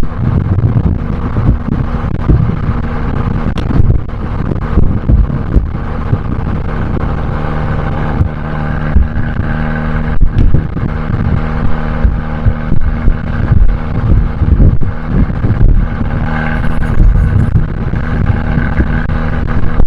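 Abarth 595C's turbocharged 1.4-litre four-cylinder running through an Akrapovic exhaust while the car is driven at a steady engine speed, with irregular low thumps throughout.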